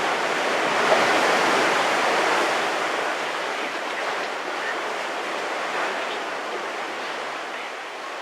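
Sea surf: a wave breaking and washing up the shore, swelling about a second in and then slowly fading.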